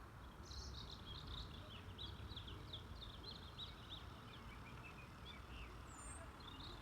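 A small bird singing a quick run of high chirps for about four seconds, then a few lower notes and a short call near the end, over a steady low outdoor rumble.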